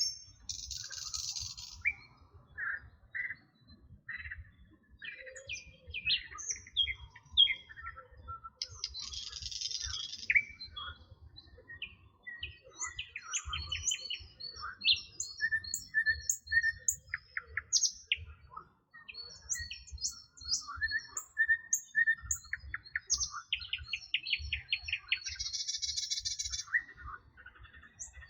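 Several songbirds singing and calling at once: a steady run of short chirps, whistles and quick repeated notes. Three times a dense, high buzzy trill lasting about a second and a half cuts in.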